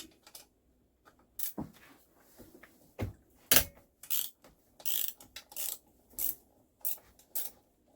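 Socket ratchet with an 8 mm socket clicking in short, irregular runs as it backs out the muffler bolts on a Stihl MS170 chainsaw, with a sharper knock about three and a half seconds in.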